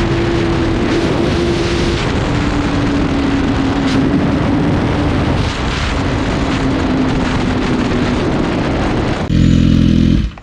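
Honda CBR1000RR's inline-four engine running loud with its exhaust silencer removed. Near the end a louder, steadier engine note comes in and then cuts off suddenly.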